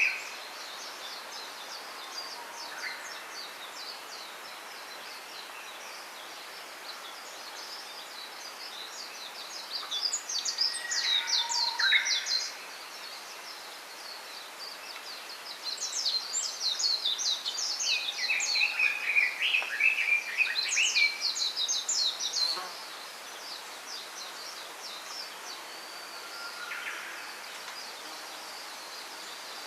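Small songbirds singing in a bamboo grove: bouts of rapid, high twittering a few seconds long, with lower chirping phrases mixed in, over a steady faint background hiss.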